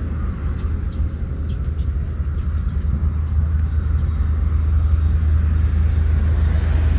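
Low, steady rumble of a motor vehicle on the move, slowly growing louder.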